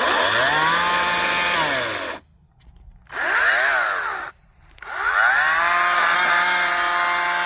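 Sunseeker 60V battery chainsaw's electric motor run up three times on the trigger. Each time its whine rises in pitch, holds steady and winds down when released: a longer run, a short blip about three seconds in, then a run from about five seconds that keeps going.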